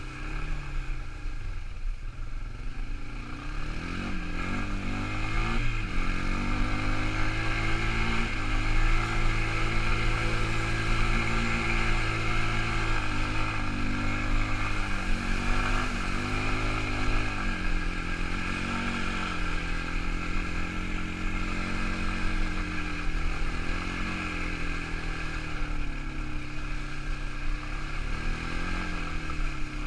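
Quad bike engine running under way, its pitch rising and falling repeatedly as the throttle is opened and eased off.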